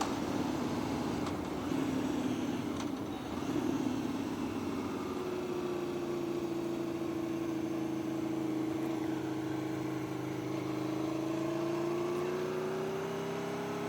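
Vehicle engine running at a steady speed, rough and uneven for the first few seconds, then holding one even pitch that dips slightly and rises a little near the end.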